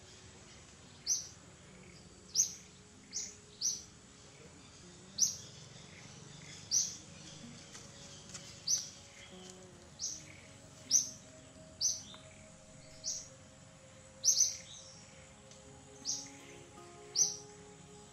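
A bird giving short, sharp high-pitched chirps, one every second or so at an uneven pace. Faint background music with held notes comes in under it about a third of the way through.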